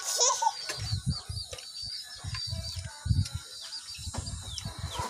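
Eating noises: short irregular chewing and mouth sounds close to the microphone, with a rapid high chirping repeating in the background.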